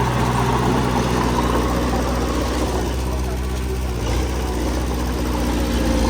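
Diesel engine of heavy earthmoving equipment, a small bulldozer or dump truck, running steadily with a low, even drone.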